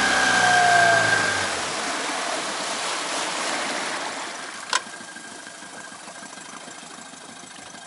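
A freshly overhauled outboard motor being throttled back: its pitch falls over the first second and a half and it settles to a much quieter idle with water washing around the hull. A single sharp click comes a little under five seconds in.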